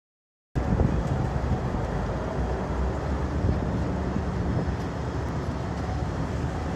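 Strong wind on the microphone atop a tower crane: a steady, heavy low rumble that starts about half a second in.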